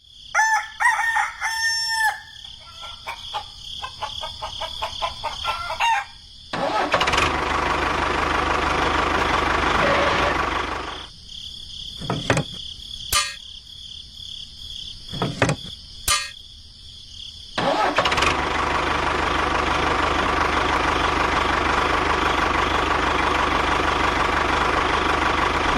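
Small engine running in two long stretches, with a quieter gap broken by a few sharp clicks between them. A rooster crows near the start.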